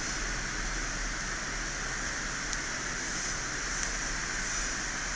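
Steady background hiss with a constant low hum, unchanging throughout, with no distinct event.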